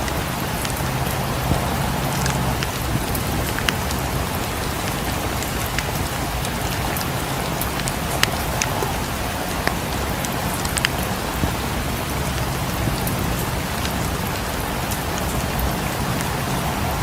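Steady rain falling on a surface, an even hiss with scattered sharp ticks throughout.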